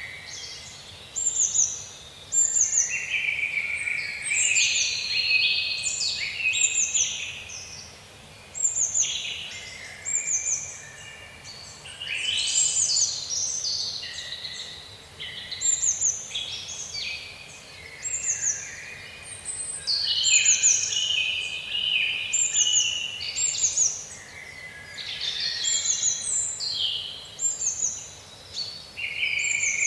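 Several songbirds singing and chirping together in a dense chorus: quick, thin, high notes that each slide downward, repeating every second or so, mixed with lower busy twittering phrases.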